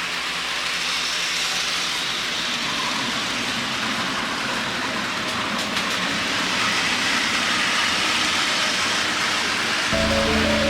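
HO-scale Thomas the Tank Engine model train running steadily on its track, a continuous rushing rattle of the wheels and motor. Music comes in near the end.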